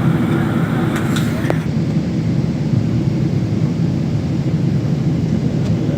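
Steady low rumble of a Boeing 777-300ER's GE90 jet engines and airflow, with a couple of faint clicks about a second in.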